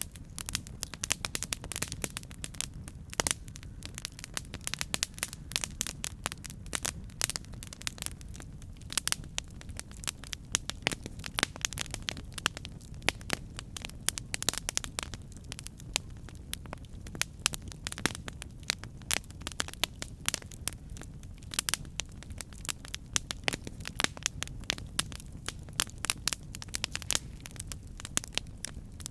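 Campfire burning, with many sharp, irregular crackles and pops over a steady low rumble of the flames.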